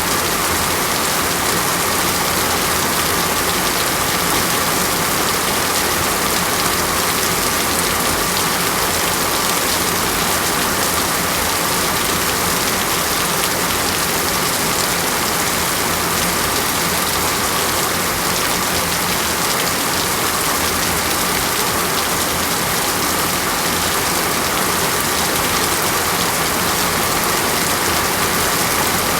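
Steady rain, a constant, even hiss with no breaks or changes.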